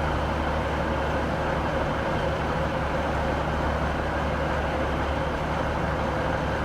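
Steady low rumble and hum of railway traffic at a station platform, with a faint constant tone above it and no distinct knocks or changes.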